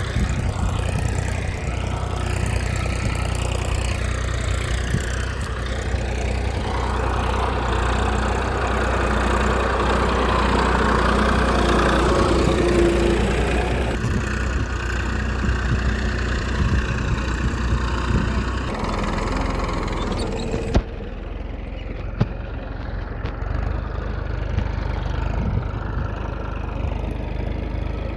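A small engine running steadily at idle. About three quarters of the way through there is a sharp click, and after it the sound turns duller.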